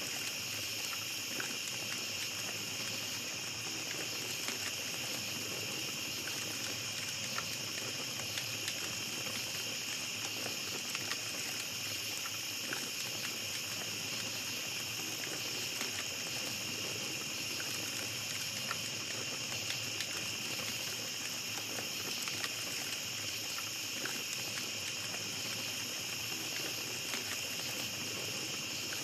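A steady chorus of night insects trilling in several high bands, over a small campfire crackling with scattered light pops.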